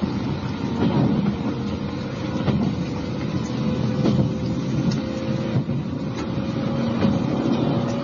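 Running noise inside a Japanese electric multiple-unit train: a steady rumble of wheels and running gear, with a faint motor whine that rises slowly in pitch and occasional clicks.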